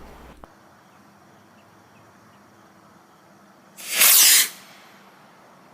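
Estes Yankee model rocket's black-powder motor igniting at liftoff: one loud hissing whoosh about four seconds in, lasting under a second before trailing away as the rocket climbs.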